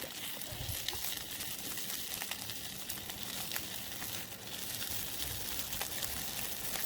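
Sausages cooking over campfire coals: a steady sizzling hiss with scattered sharp crackles.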